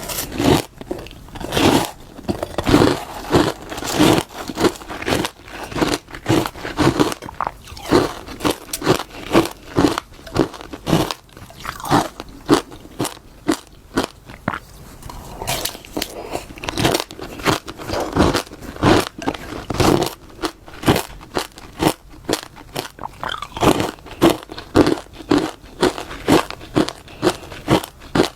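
Close-miked biting and chewing of crunchy fridge frost, a dense irregular run of sharp crisp crunches, several a second.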